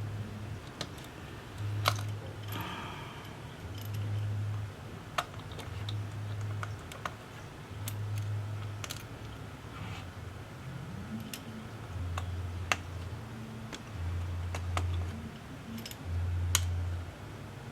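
Small sharp clicks and taps of hand tools and parts on a tablet being taken apart for repair, irregular and spread through the whole stretch. Under them a low hum swells and fades about every two seconds.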